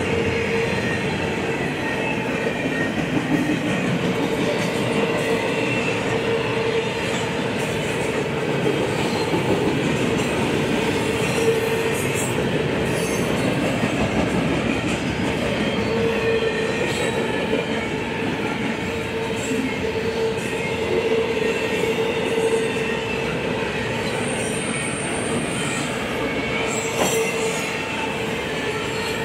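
Double-stack intermodal well cars rolling past at speed: a steady rumble of steel wheels on rail, with a steady whining tone from the wheels that is stronger at times.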